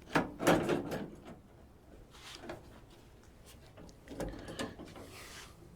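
Metal parts inside a 1963 Chevy C10 truck door clattering and scraping as a window rail is worked loose. A loud burst of knocks comes right at the start, with quieter clatter and a short scrape later on.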